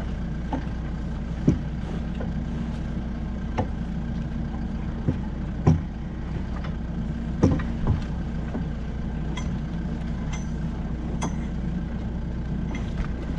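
Tractor engine running steadily at a low, even speed, with a dozen or so short sharp knocks now and then.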